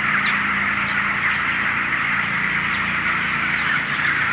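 Dense, continuous cheeping of a large flock of 24-day-old broiler chickens, over a steady low hum from the house's tunnel-ventilation fans.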